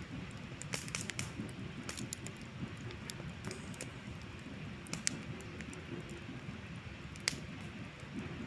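Wood campfire crackling, with scattered sharp pops over a low steady rumble; the strongest pops come about five seconds in and again near seven seconds.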